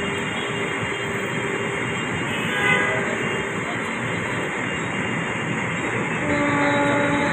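Ahmedabad Rajdhani Express train running with steady rail noise, and a train horn sounding in one held note from about six seconds in.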